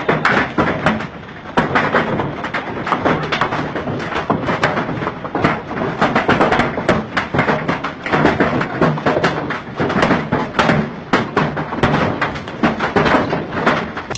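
Heavy storm precipitation pelting a hard surface: a dense, irregular patter of loud knocks that keeps up without a break.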